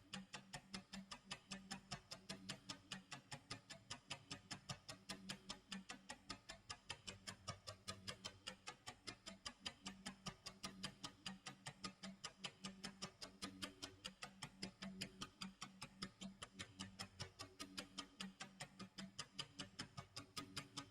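Tick-tock clock sound effect: quiet, steady, evenly spaced ticking, several ticks a second.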